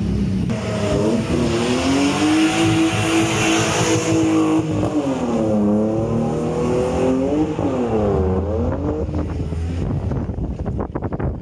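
Car engine revving hard at a car show: its pitch climbs and holds high, drops, then is blipped up and down twice more. Near the end the engine settles and the exhaust gives a rapid run of crackling pops.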